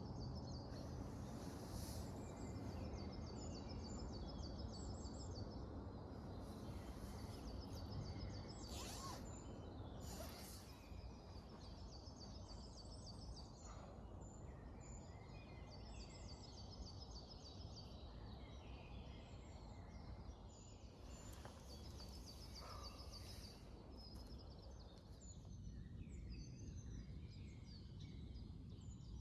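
Wild birds singing in woodland: short, high, repeated trilled phrases every few seconds over a steady low background hum.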